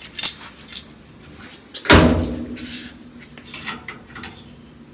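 Metal parts being handled, with light clinks and one loud metallic clank about two seconds in that rings on briefly.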